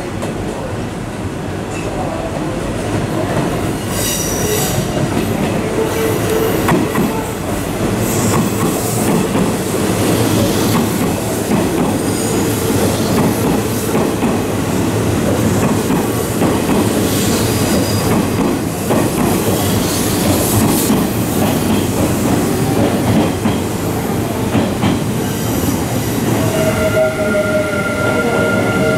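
Hanshin Railway electric train running through the station without stopping, its wheels rumbling and clattering over the rail joints. Near the end a high, steady squeal of several tones joins in.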